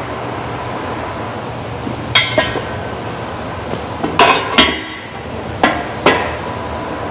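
Metal tools and parts clanking while an engine is bolted onto an engine stand: several sharp metal clanks with a short ring, coming in small groups, over a steady low hum.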